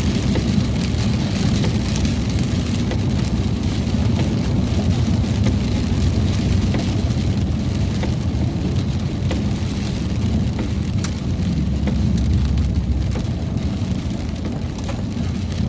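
Road noise inside a moving car: a steady low rumble from the engine and tyres, with scattered faint ticks over it.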